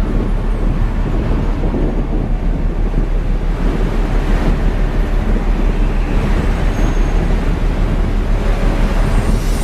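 Steady, loud low rumble of storm wind and surf.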